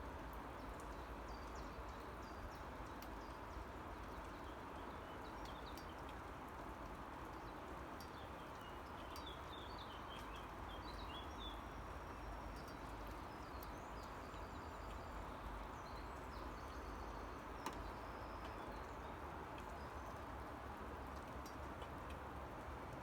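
Birds chirping, short scattered calls that cluster in the middle stretch, over a faint steady outdoor hiss, with a few sharp ticks.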